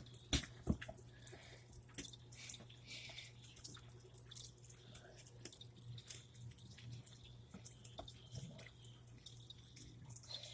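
Rainwater dripping: scattered, irregular drops and light taps, with a faint steady low hum underneath.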